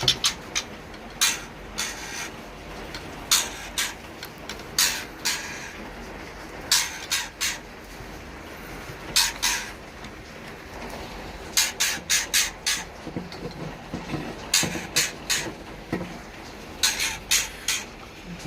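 White-rumped shama nestlings begging with short raspy, hissing calls in quick clusters of two to four, repeated every second or two, as they are fed by the parent bird.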